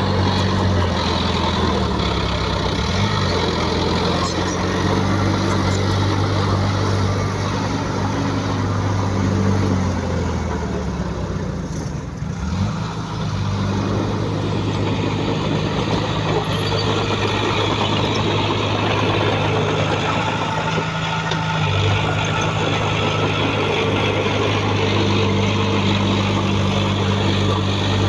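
Heavy diesel engine of earthmoving machinery running steadily, its pitch dropping and rising again a few seconds in and again near the middle.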